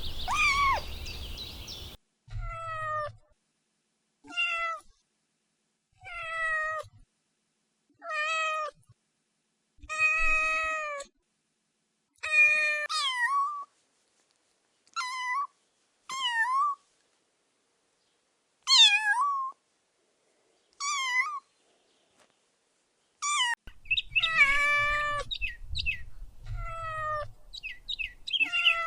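Kitten meowing over and over, high-pitched calls every second or two, some falling and then rising at the end; near the end several meows come close together.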